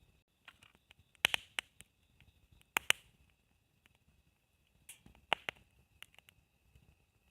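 Burning firewood in a campfire crackling, with sharp irregular pops, several of them loud in clusters about a second in, near three seconds and at about five seconds.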